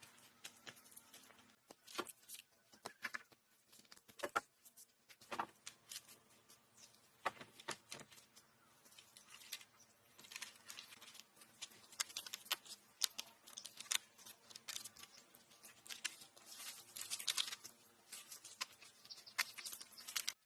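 Irregular snapping, crackling and rustling of twigs and dry foliage being handled. The sounds are quick and uneven and grow busier near the end.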